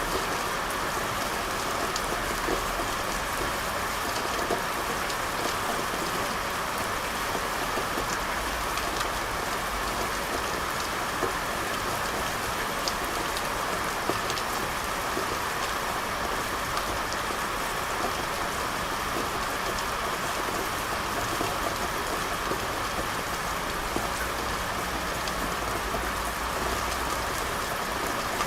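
Steady rain falling, a continuous hiss with individual drops tapping here and there.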